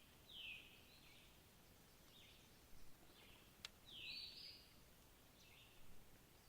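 A bird giving a run of short, rasping calls, about five of them, set against faint background hiss. A single sharp click comes about halfway through.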